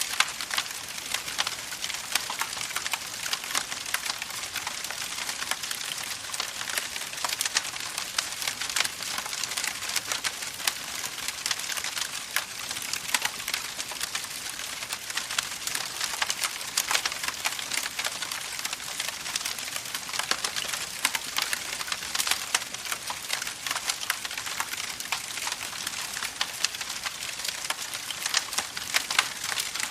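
Campfire crackling: burning wood giving off a dense, steady stream of small pops and snaps over a soft hiss.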